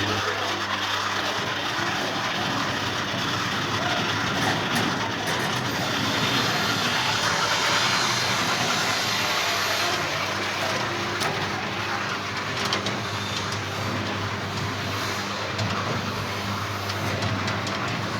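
Plum sizing machine running: a steady motor hum under a continuous dense clatter of small clicks and rattles as fruit passes through it.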